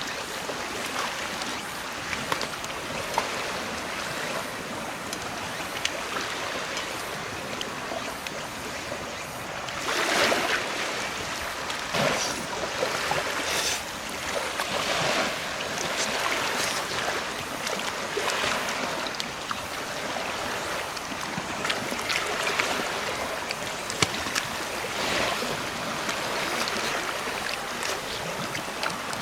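Sea waves washing onto the shore: a steady rush that swells every few seconds as each wave comes in.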